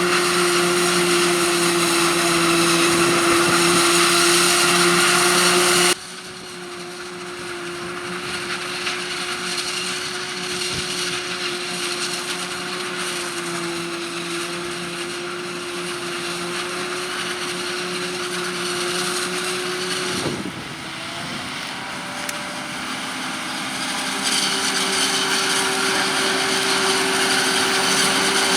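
Forage harvester and tractors working in maize, with engines running steadily under a high whirring whine. The sound cuts abruptly to a quieter machine about six seconds in and back to a louder one near the end. A brief sweep in pitch comes around twenty seconds in.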